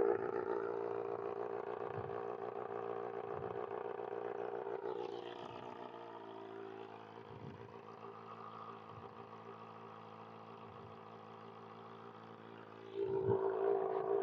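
2025 Kawasaki ZX-6R's inline-four idling through a Voodoo Racing slip-on exhaust just after a cold start. It is loud at first, then drops to a lower, steady idle over the next several seconds, and gets louder again near the end.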